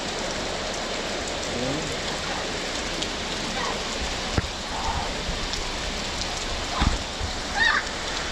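Heavy tropical rain pouring down steadily, a torrential downpour drumming on the ground and surfaces. Short voices rise above it now and then, and a couple of low thuds come about halfway through.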